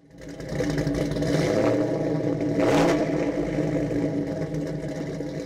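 Car engine running, fading in from silence at the start, with a brief louder burst a little under three seconds in.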